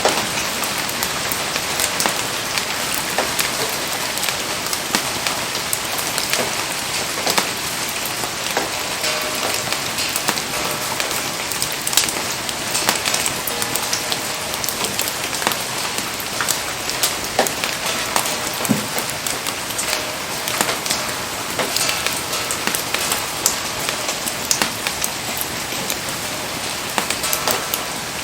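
Steady rain falling in a dense hiss, with frequent sharp ticks of drops striking nearby surfaces.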